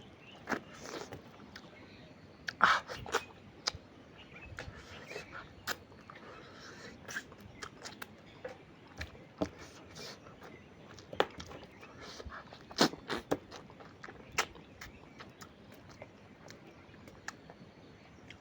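Close-miked eating of fish curry and rice: irregular mouth smacks and small clicks while chewing, with a few louder smacks about two and a half seconds in and again near thirteen seconds.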